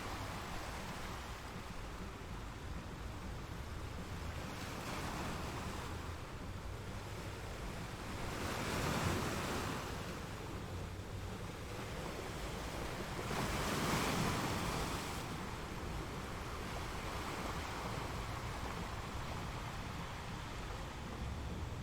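Ocean waves washing onto a shore as a steady rushing noise, with two waves breaking louder, about eight and thirteen seconds in.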